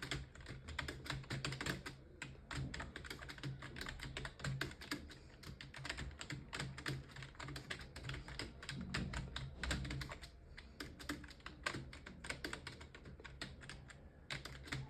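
Computer keyboard being typed on fast and without pause, a rapid run of key clicks that thins out slightly near the end.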